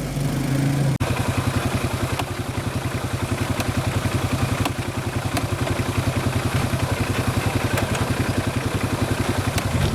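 A 4x4 off-road vehicle's engine idling steadily with an even, rapid pulse, with a few sharp clicks on top. The sound changes abruptly about a second in.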